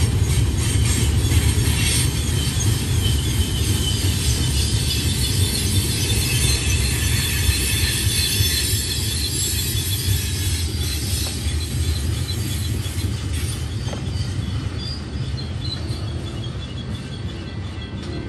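Freight cars of a Union Pacific manifest train rolling by, a steady low rumble and clatter of steel wheels on rail with thin high-pitched wheel squeal. It grows gradually fainter in the second half as the tank cars pull away.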